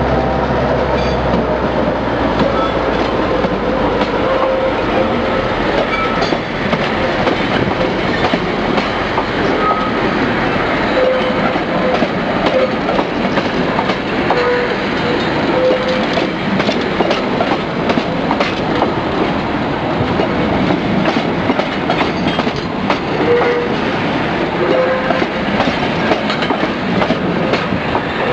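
Passenger carriages of a train rolling past at close range: a steady rumble of wheels on rail with frequent clicks as they cross rail joints, and a few brief squeaks.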